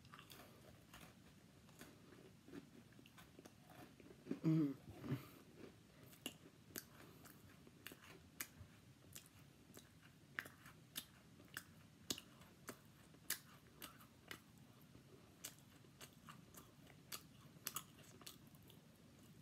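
Close-up chewing of crisp Cafe Noir biscuits: faint, irregular crunches about once or twice a second. One louder, brief mouth sound comes about four and a half seconds in.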